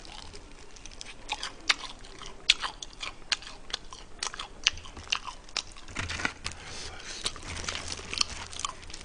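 Close-miked chewing of fried chicken: crisp, irregular crunches of the fried coating between the teeth, with wet mouth sounds.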